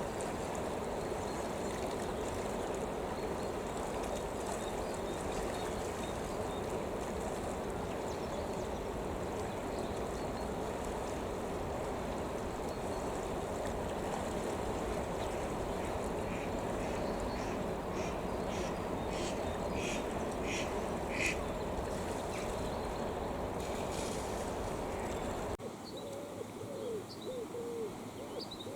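Steady rushing water, with a quick series of short sharp bird calls partway through. Near the end the sound cuts to a pigeon cooing in low, repeated gliding notes.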